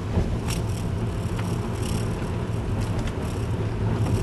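Steady low rumble of a car's engine and tyres heard from inside the moving car, with a few faint clicks.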